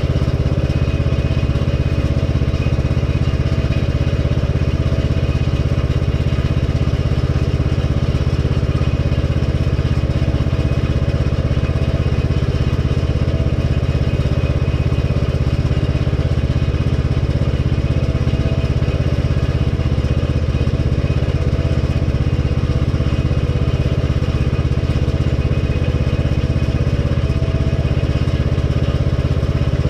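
Lawn tractor's engine running at one steady speed, its pitch and loudness unchanging throughout.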